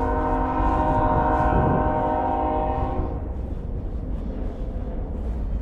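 Train horn sounding one held chord over a low rumble, cutting off about three seconds in.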